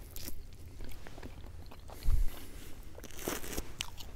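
A person biting into and chewing pit-roasted lamb rib meat, with small wet clicks and crunches. A short low thump about two seconds in.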